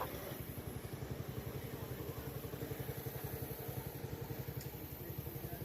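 An engine idling steadily, a low, even putter of about six or seven beats a second.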